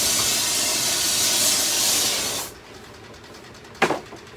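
Jeweler's torch flame hissing steadily on a crucible of molten gold, cut off suddenly about two and a half seconds in; a single sharp knock follows about a second later.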